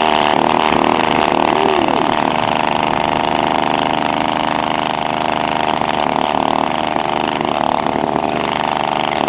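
Small combustion engine of an RC model plane running steadily at high speed, with only slight waver in pitch.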